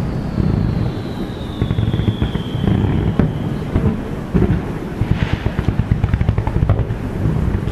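Aerial fireworks bursting in quick succession, a dense rumble of booms, with a long whistle falling in pitch over the first few seconds and a short crackle about five seconds in.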